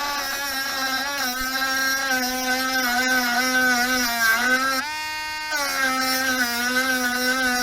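Dremel rotary tool with a cutoff disc cutting through the protective coil and plastic sleeve of a door-release cable. Its high whine sags in pitch as the disc bites, rises briefly about five seconds in as it spins free, then drops again as cutting resumes.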